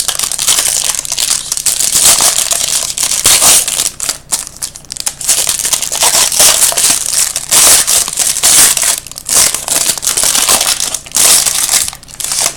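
Card-pack wrappers being torn open and crumpled by hand, a loud irregular crinkling that runs on without a break and stops at the end.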